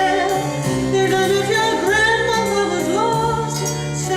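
A stage musical number: voices singing, with a held melodic line, over a steady instrumental backing track.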